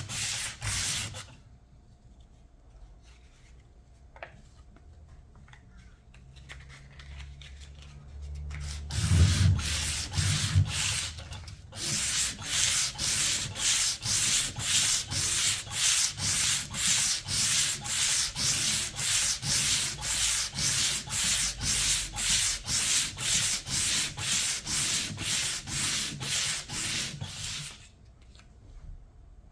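Sandpaper rubbed back and forth by hand to strip old paint and finish. The strokes are even, about two a second, and come after a pause with a few low bumps of handling. They stop near the end.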